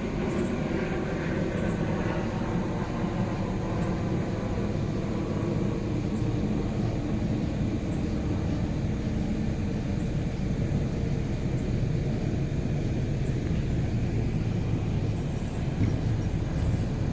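Steady low engine rumble, with faint engine tones over it.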